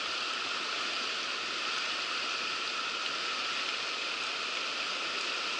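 Steady rushing of river rapids, an even wash of moving water.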